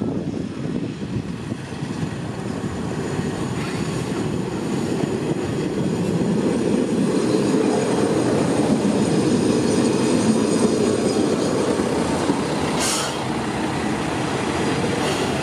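Sanriku Railway 36-700 series diesel railcar running into the station and passing close by, its engine and wheel noise growing louder as it nears and then easing as it slows. There is one brief high squeal near the end.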